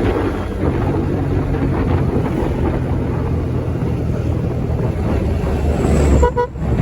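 Steady rumble of road traffic with wind buffeting the microphone, and a short vehicle horn toot about six seconds in.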